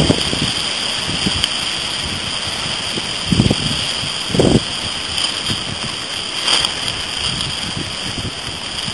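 Hurricane-driven surf breaking on the shore, a steady rushing noise, with wind buffeting the microphone in short gusts, most strongly about three and a half and four and a half seconds in.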